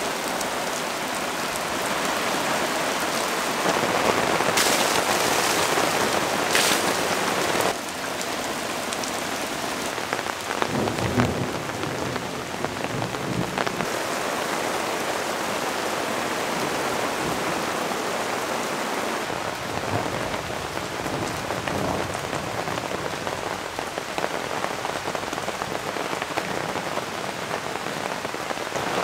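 Heavy downpour pelting the ground, a dense steady hiss of an intense rainstorm. It is louder for a few seconds near the start and drops off suddenly about eight seconds in.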